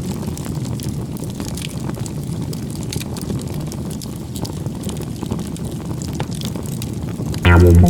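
Steady low rumble of outdoor wind on the microphone, with scattered light clicks. Background music starts abruptly near the end.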